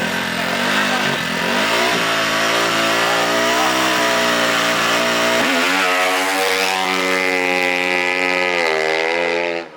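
Off-road racing engine running at high revs: the note holds steady for about five seconds, then climbs in pitch and holds high before cutting off abruptly just before the end.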